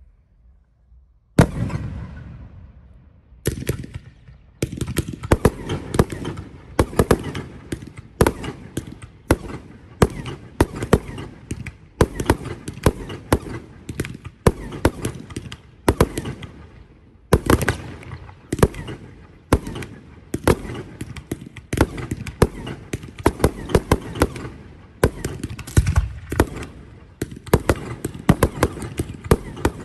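Aerial fireworks display: a lone shell bursts just over a second in and another a couple of seconds later. From about four seconds on comes a dense barrage of sharp bangs, several a second.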